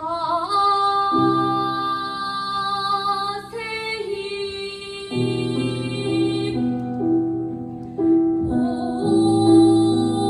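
A woman singing a solo song in pansori style, drawing out long held notes with a wavering, shaken pitch, over sustained instrumental chords that change every few seconds.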